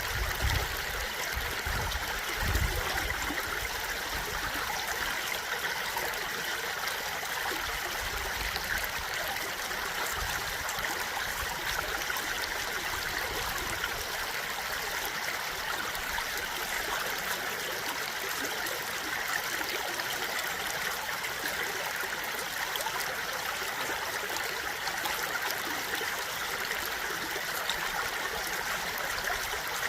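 A stream of water flowing steadily, with an even rushing babble that doesn't change. A few low rumbling bumps come in the first few seconds.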